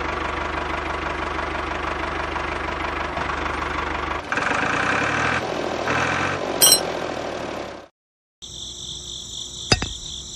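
Small motor and gears of a miniature DIY toy tractor running steadily as it drives. Partway through the sound changes, a sharp click comes about two-thirds of the way in, and after a brief gap a higher, steady whine returns with a click near the end as the trolley is hooked on.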